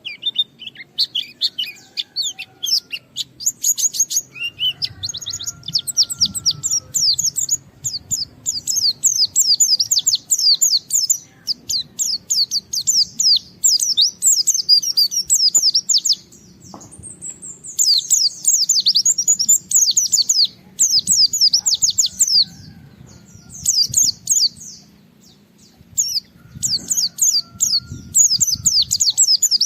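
A white-eye (pleci) singing in long, fast runs of high, short, falling chirps, broken by a few brief pauses.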